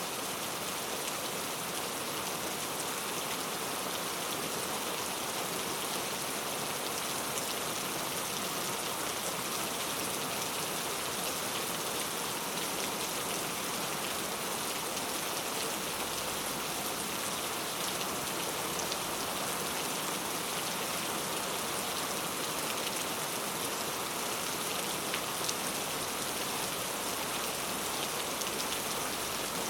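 Steady rainfall pattering on a surface, an even hiss with scattered drop ticks.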